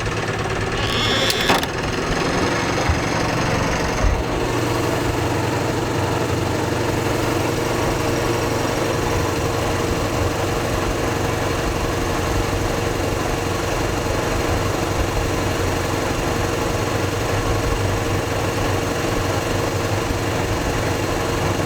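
A sailboat's inboard auxiliary engine running steadily while backing in reverse under load, with a brief rattling noise about a second in and a small knock about four seconds in.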